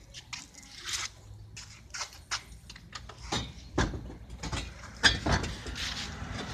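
Irregular light clicks and knocks of parts being handled during hands-on work, loudest about four and five seconds in, over a faint steady low hum.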